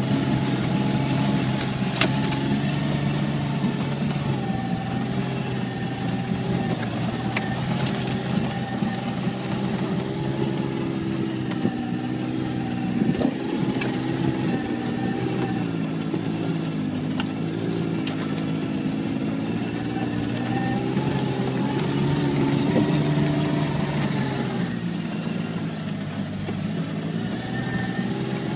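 Car engine heard from inside the cabin while driving a rough dirt track, its pitch rising and falling as the revs change, with occasional sharp knocks and rattles from the bumps.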